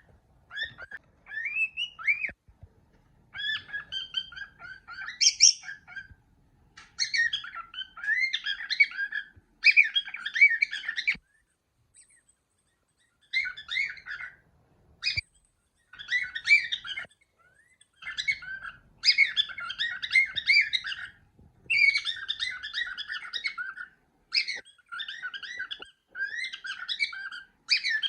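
Cockatiel whistling and chattering in bouts of quick warbling notes, each a second or two long, separated by short pauses.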